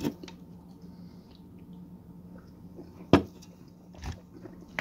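Faint chewing of a mouthful of pizza, over a steady low hum. A single sharp click about three seconds in, followed by a soft low thud.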